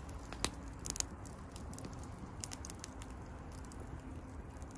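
Oak firewood burning in an open fire, crackling with scattered sharp pops, most of them in the first three seconds, over a steady low rumble.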